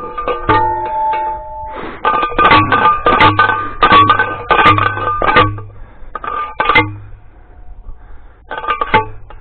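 Manual T-post driver slamming down onto a steel T-post, driving it into the ground: a quick run of ringing metal clangs, about three a second, a pause, then a couple more strikes near the end.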